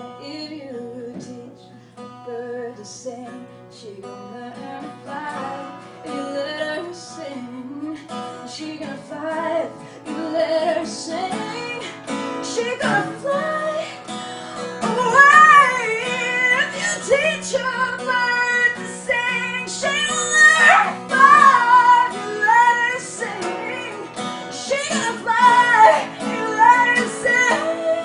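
Live acoustic song: a strummed acoustic guitar with a woman singing over it, starting softly and growing louder and fuller from about halfway through.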